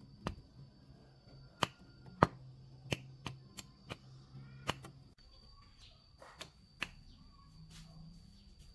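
Irregular sharp clicks and knocks, about a dozen, the loudest two near the start, over a faint steady high-pitched tone and a low hum.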